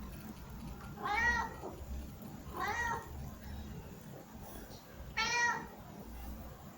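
A domestic cat meowing three times, each meow a short call that rises and falls in pitch.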